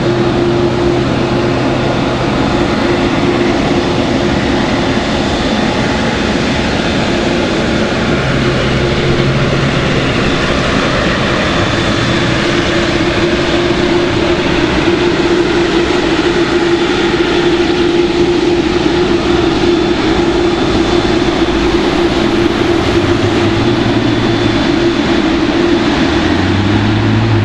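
Boeing 787 Dreamliner's jet engines running, a loud, even rush of noise with a steady hum underneath.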